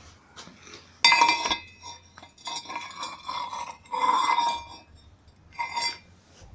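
Hammer striking a steel tube on an anvil, a series of sharp ringing metallic clinks starting about a second in, as a cone is worked into the tube end.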